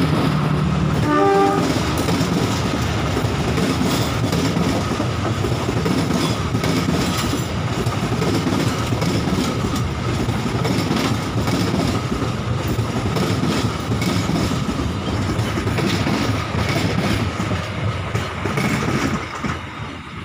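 Passenger coaches of a local train rolling past at close range, their wheels clattering steadily over the rails. A horn blast dies away about a second in, and the noise eases near the end as the last coach goes by.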